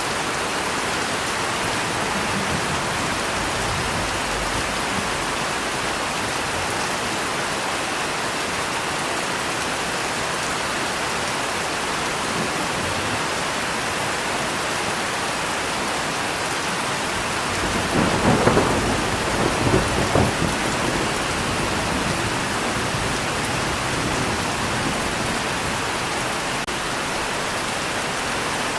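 Steady heavy rain falling, with a rumbling thunderclap breaking in about two-thirds of the way through and crackling for a few seconds before the rain carries on alone.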